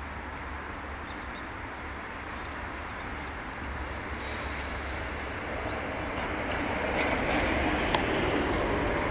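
Electric commuter train approaching and passing close by, its running noise growing steadily louder, with a few sharp clicks near the end.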